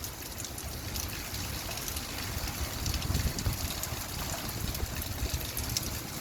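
Light rain falling, heard as a steady hiss with many small scattered drop ticks, over a low rumble.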